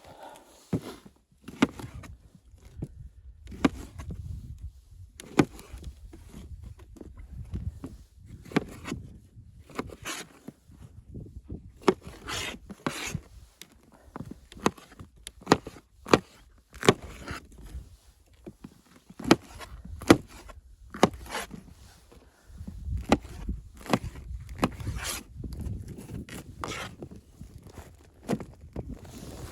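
A string of irregular knocks, scrapes and rubbing sounds, a few a second, over a low rumble that comes and goes.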